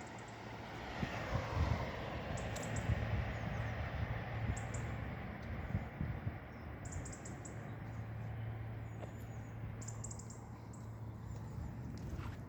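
Faint low hum and rumble of distant traffic, swelling a little in the first couple of seconds, with short high bird chirps every few seconds.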